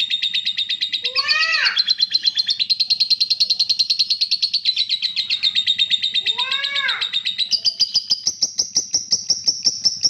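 Pet songbird singing a fast, continuous trilled song of rapid high chirps, which shifts to a higher pitch near the end. Two short, lower arched calls break in, about a second in and again about six seconds in.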